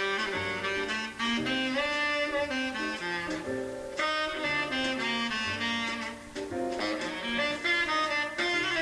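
Jazz tenor saxophone playing a quick line of notes over a double bass.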